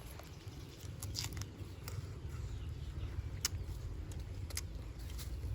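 Close-up chewing of crisp raw green mango: scattered sharp crunches and mouth clicks over a low, steady background rumble.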